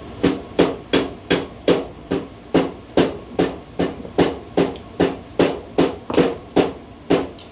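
Hammer striking steadily, about two and a half blows a second, each blow with a short ring.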